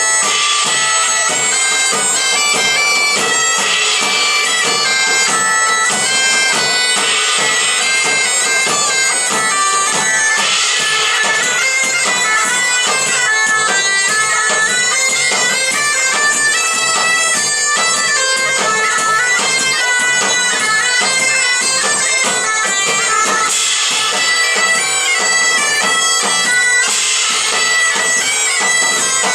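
Medieval-style folk band playing an instrumental passage led by bagpipes, a melody over a steady drone, with faint regular drumming beneath.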